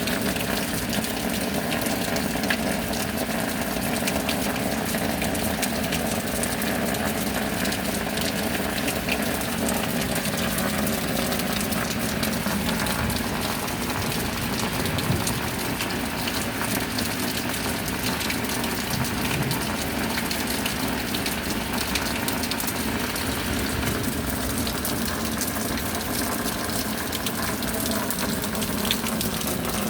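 Steady rain: a continuous rushing hiss with many fine drop ticks through it, level and unbroken.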